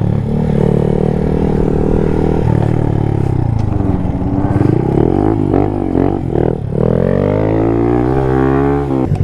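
Small motorcycle engine running under throttle: the pitch holds, drops about two and a half seconds in, rises and falls a few times, then climbs steadily over the last two seconds before dropping again at the end.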